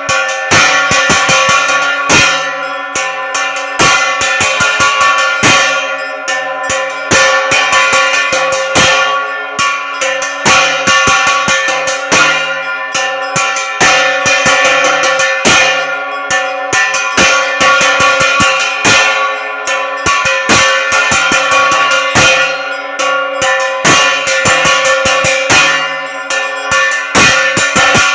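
Temple bells clanging rapidly and without pause during a Hindu aarti, with drums beating along. Steady ringing tones hang under the dense strikes.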